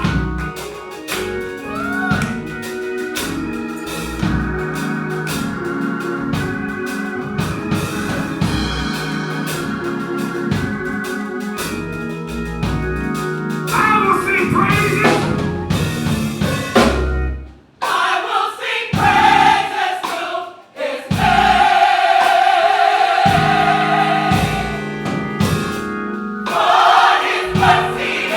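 Live gospel music: organ chords over bass and drums, with choir singing. The band stops short twice a little past the middle, then holds a long note, and the choir comes in strongly near the end.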